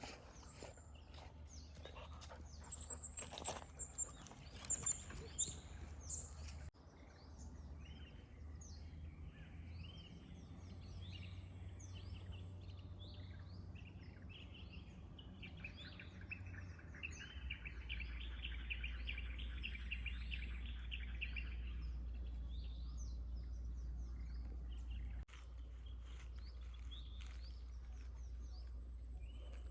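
Many small birds chirping and calling in an open rural outdoor soundscape, with a steady thin high whine and a denser buzzing trill in the middle, over a low rumble.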